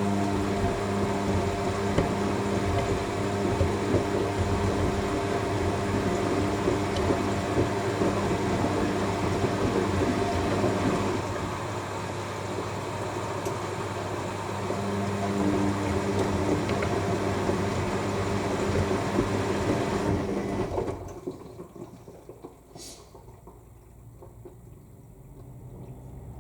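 AEG washing machine at the start of its final rinse, with water rushing into the drum while the drum motor hums in two spells of turning. The water inflow cuts off suddenly about 21 seconds in, leaving a much quieter machine.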